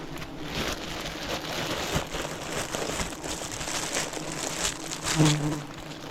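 Swarm of giant honeybees (Apis dorsata) buzzing as a steady low hum over close crackling and rustling. The hum swells loudly for a moment about five seconds in.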